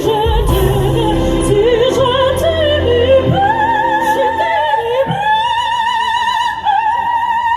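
Operatic soprano singing with wide vibrato over a low accompaniment, climbing about five seconds in to a long held high note.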